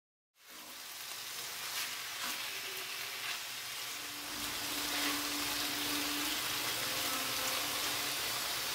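Diced chicken, eggplant, peppers and tomato frying with a steady sizzle in an enamelled cast-iron pot, stirred with a wooden spoon that scrapes lightly now and then. The sizzle starts about half a second in and grows a little louder midway.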